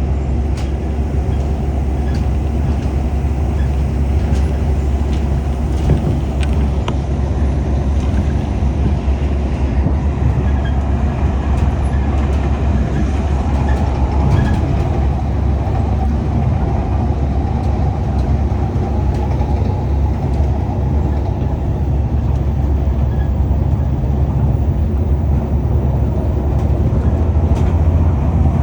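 Rubber-tyred Tokyo Monorail train running along its beam, heard inside the car: a steady low rumble with a few faint clicks.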